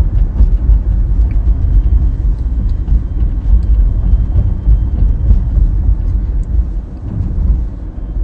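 Low rumble of road and tyre noise heard inside the cabin of a Tesla under way on Full Self-Driving.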